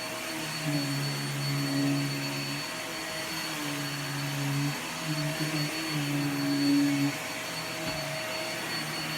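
Hoover vacuum cleaner running steadily with a high motor whine. A low hum comes and goes every second or two.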